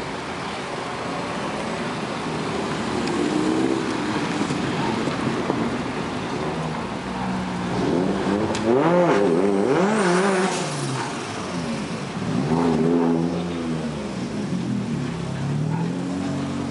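Cars driving past one after another, their engines revving up and down. The loudest pass comes about halfway through, with a brief rising high whine at its peak.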